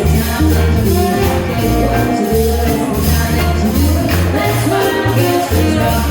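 A live swing jazz band playing a tune at a steady dance tempo, with a moving bass line under held melody notes and regular cymbal strokes.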